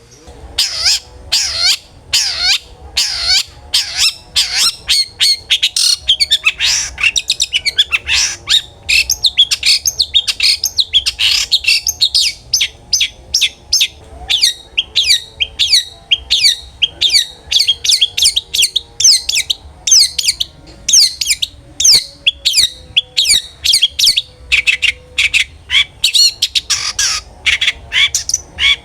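Long-tailed shrike (cendet) singing without pause: a fast, dense run of short, sharp chattering notes, several a second, mixed with quick gliding whistles.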